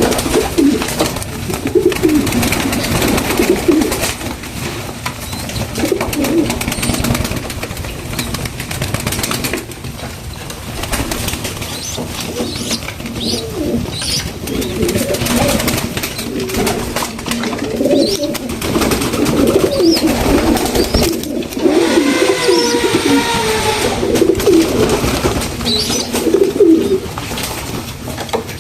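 Several pigeons cooing over one another in repeated low, warbling calls, with a few short high chirps mixed in.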